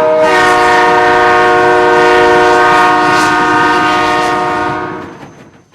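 Train horn sounding one long blast of several notes held together, fading out near the end.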